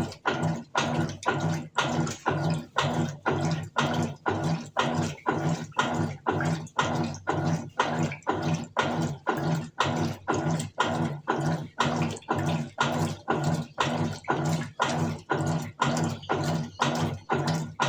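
Colormaq Eco Max 14 kg top-loading washing machine agitating its load during the wash phase: rhythmic back-and-forth strokes of the motor and agitator churning water and clothes, about two and a half strokes a second.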